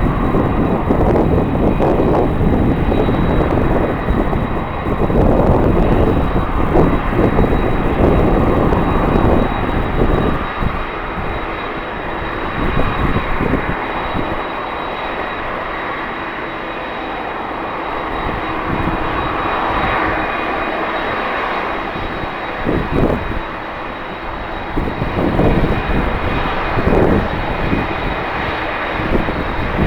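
Jet airliner's engines running with a steady high whine, while strong wind buffets the microphone in gusts, heaviest in the first third.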